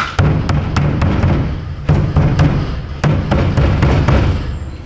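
Repeated hard thumps, about three a second, struck on a 2016 GMC Sierra's fuel tank with the key on: an old-school test to jar a sticking in-tank fuel pump into running. The pump does not start.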